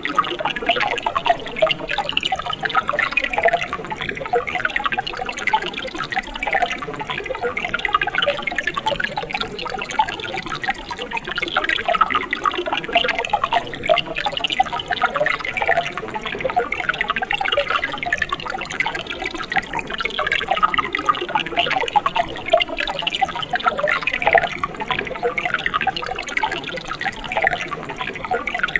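Water of a mountain stream babbling steadily, a continuous mass of small splashes and gurgles.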